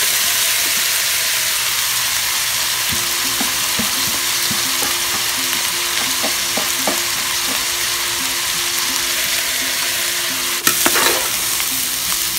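Cooked basmati rice and vegetables sizzling in hot oil in a pan, with faint scrapes and clicks of a steel ladle stirring. A sharp knock comes about ten and a half seconds in.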